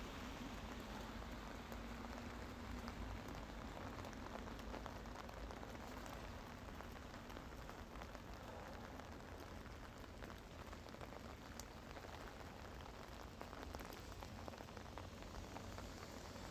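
Steady rainfall pattering on surfaces, a constant hiss of rain with many small drop ticks.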